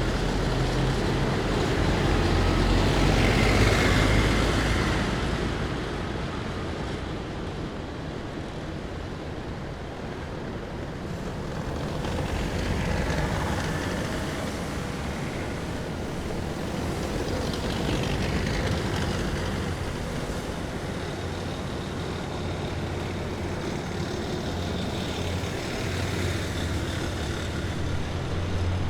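Heavy military vehicles driving past in a column, their engines droning with a steady low hum. The drone swells loudest about four seconds in as a vehicle passes close, then rises and falls more gently as others follow.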